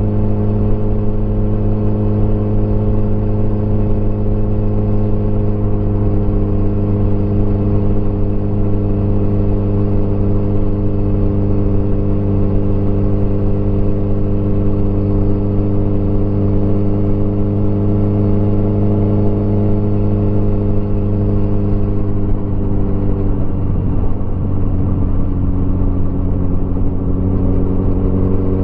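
Motorcycle engine running steadily under way. About 22 seconds in its pitch drops briefly as the throttle eases, then climbs again near the end.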